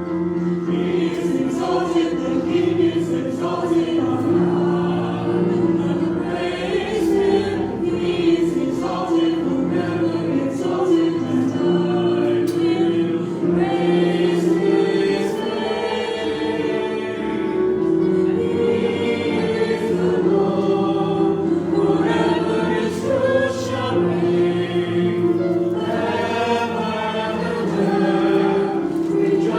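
Choir singing a gospel hymn in held, sustained phrases.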